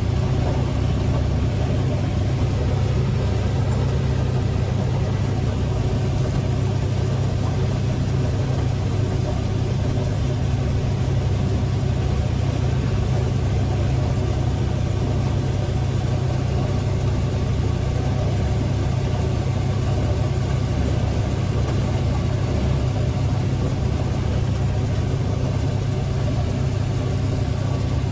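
IH 1460 combine running steadily while harvesting corn: an even, low engine and machinery drone that does not change.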